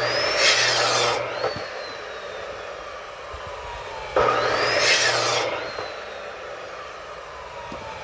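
Electric saw cutting through firewood logs, twice: two loud cuts of about a second and a half each, one at the start and one about four seconds in, with the motor's whine gliding down between them.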